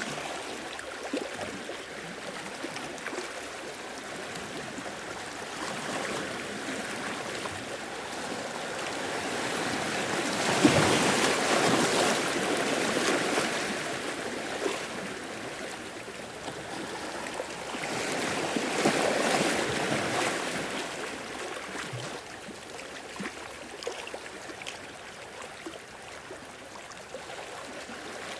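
Sea waves washing in and out, with two larger waves swelling up, one about ten seconds in and another near twenty seconds.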